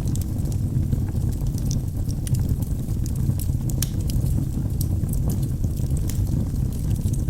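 Wood fire burning in a fireplace: a steady low roar of the flames with frequent small sharp crackles and pops from the logs.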